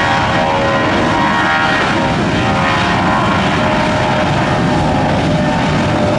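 Airliner engines running close by: a steady loud rush with a cluster of whining tones held throughout.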